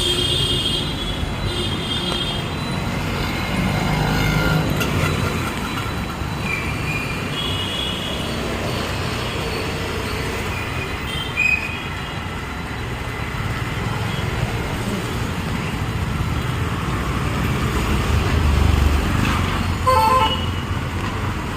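Busy street traffic with engines running and vehicle horns honking: several short toots spread through, the first right at the start.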